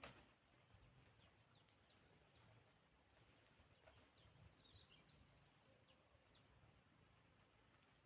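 Near silence with faint, short bird chirps repeating in the middle stretch over quiet background noise.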